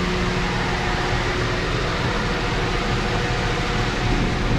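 The Lincoln MKZ's six-cylinder engine idling with an even, steady hum.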